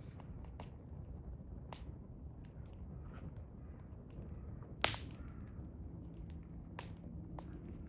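Hardwood firewood burning, crackling with many sharp pops and one much louder snap about five seconds in, over a low steady rumble.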